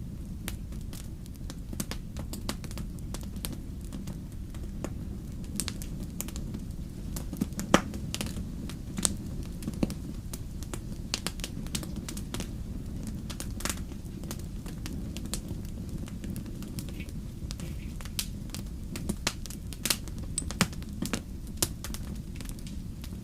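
Wood fire crackling and popping: irregular sharp snaps over a steady low rumble of burning, with one louder pop about eight seconds in.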